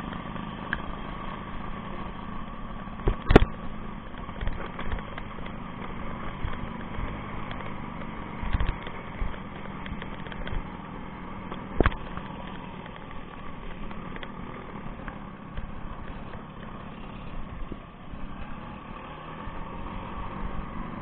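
Small motorcycle engine running steadily while riding along a rough dirt road, with two sharp knocks, one a few seconds in and one about halfway through.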